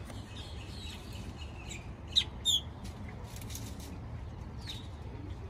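Bird calls: two sharp, loud calls in quick succession about two seconds in, with fainter chirps scattered before and after.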